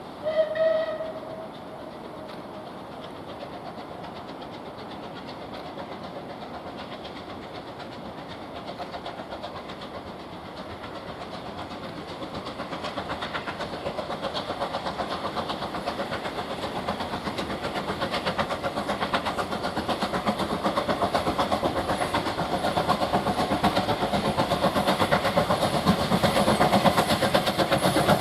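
Steam locomotive sounding a short whistle blast about half a second in, then approaching with its working beat and running noise growing steadily louder.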